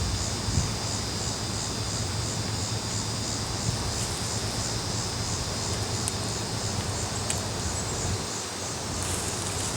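A colony of honey bees buzzing in a steady, dense hum, disturbed by the removal of their comb. Above it, a high insect trill pulses evenly a few times a second.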